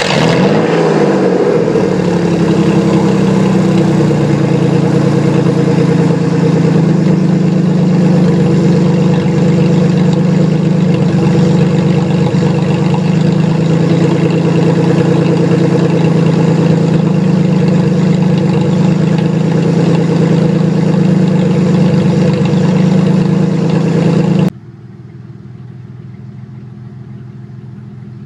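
Ford Explorer's stock 4.0-litre V6 with its muffler cut off, just started cold: it flares at the start and drops back over a couple of seconds, then runs at a loud, steady fast idle through the open exhaust. Near the end the sound drops suddenly to a much quieter steady running.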